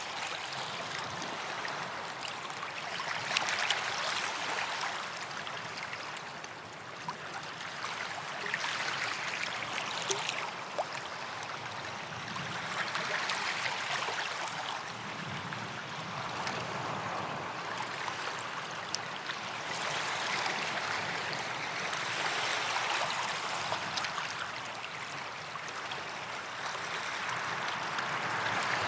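Small waves washing up on a sandy beach: a hiss of surf that swells and fades every five to seven seconds, with a few faint ticks of water.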